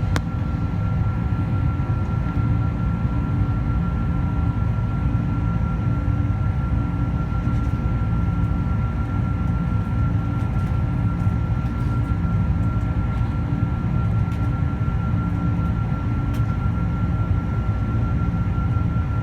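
Steady cabin drone of a Boeing 747-400 airliner: a low, even rumble with a thin steady whine above it.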